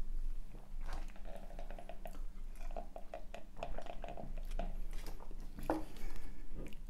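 Close-up eating and drinking sounds: chewing and wet mouth clicks, with a sip from a paper cup of Coke partway through.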